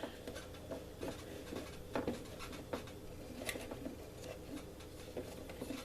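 Hands handling small screws and lock nuts, fitting them onto a small outlet bay: faint rubbing and scattered light clicks, a few sharper clicks about two to three and a half seconds in.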